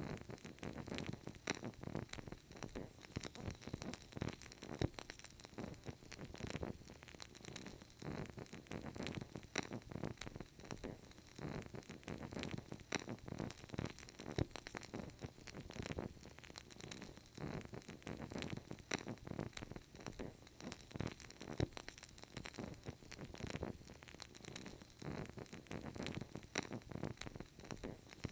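Burning candle crackling softly: a steady run of small irregular pops and crackles.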